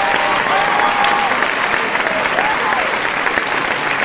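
Large crowd applauding, a dense steady patter of many hands clapping at once.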